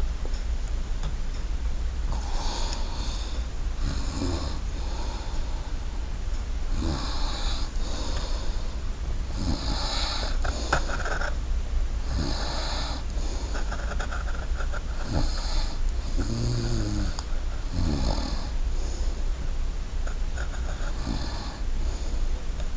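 Drawing strokes scratching on a drawing surface, in short bursts of about half a second to a second, over a steady low hum.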